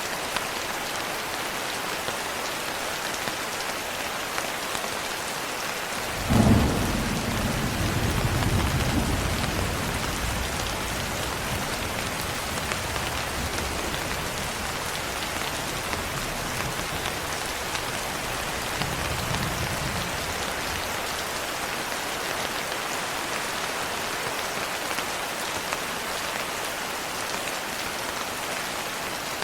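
Steady rain with a thunderclap about six seconds in: a sharp crack followed by a low rumble that rolls on for over ten seconds before fading back under the rain.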